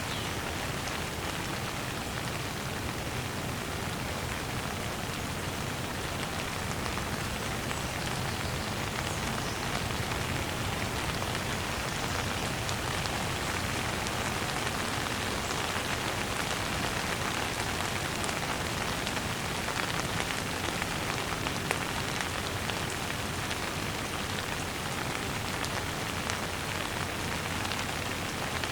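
Steady rain falling on a hard surface: a continuous even hiss with many small drops pattering.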